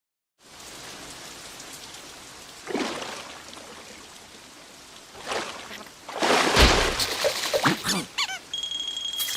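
Steady rain falling, starting about half a second in, with louder splashy swells around three and five seconds in and the loudest one around six to seven seconds in. Near the end come a few short pitched squeaks and a steady high beep.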